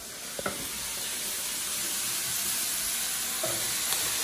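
Food sizzling and frying in a hot pot, the sizzle building louder over the first couple of seconds, with a light knock about half a second in.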